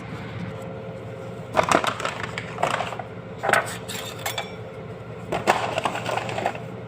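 Irregular clatter and rustling of kitchen items being handled, several short knocks spaced unevenly, over a steady low hum.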